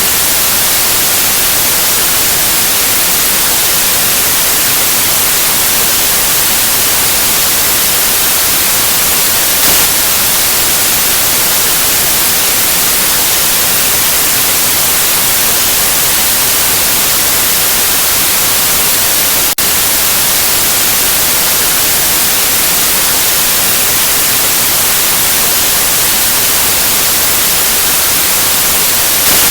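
Steady electronic white noise, an even hiss strongest in the high end, with a momentary dip in level about two-thirds of the way through.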